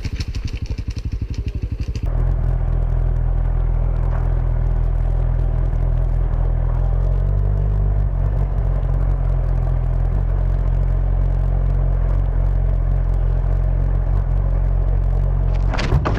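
Motorcycle engine running while riding: a quick run of even pulses for about two seconds, then a steady low drone.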